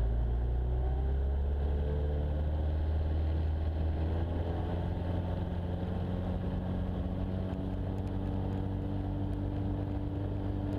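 Jabiru light aircraft engine at full power on the takeoff roll, a steady drone heard inside the cockpit, with a faint whine rising over the first few seconds as the aircraft gathers speed.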